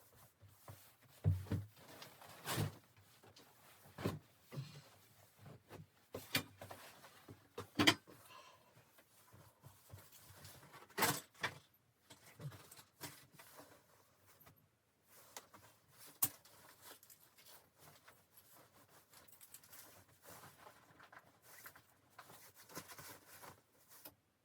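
Scattered knocks and clicks at irregular intervals with rustling in between; the loudest knocks come about a second in, around eight seconds in and around eleven seconds in.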